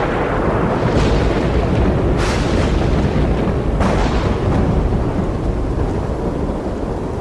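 Thunderstorm noise: a continuous deep rumble, with sudden hissing surges about a second in, just after two seconds and near four seconds.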